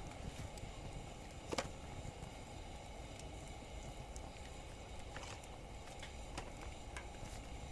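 Wood campfire crackling faintly: a few scattered sharp pops over a steady low rumble.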